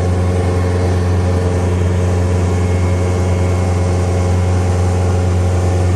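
Tractor engine running steadily, a loud even drone.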